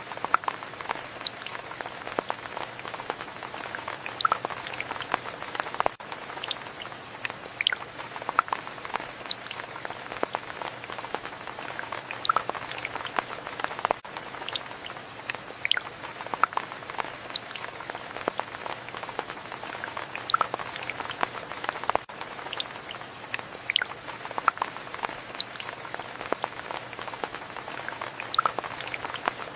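Steady rain with many separate drops striking close by, their sharp ticks scattered over a continuous hiss. The recording loops, repeating about every eight seconds.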